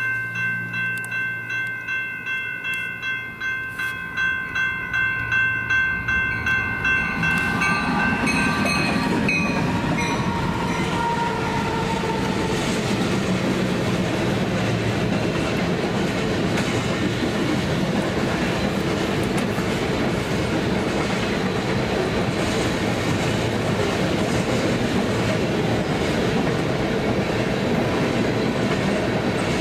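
Grade-crossing bell ringing in quick, steady strokes. About seven seconds in, a freight train arrives and drowns it out, passing with a steady rumble and the clickety-clack of its wheels over the rail joints.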